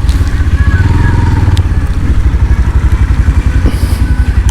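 Motorcycle engine running under way, with a rapid, even pulsing beat from the exhaust.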